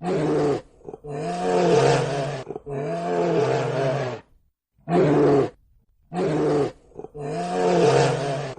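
A large wild animal roaring in a series of about six calls separated by short pauses, each call carrying a clear pitch that bends up and down.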